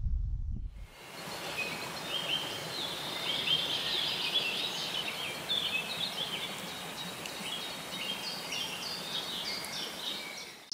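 Several songbirds chirping and trilling over a steady hiss, starting about a second in after a brief low rumble.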